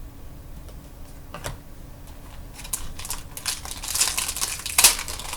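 Trading-card pack being handled and torn open: one click, then rapid crinkling and crackling of the wrapper and cards that grows louder.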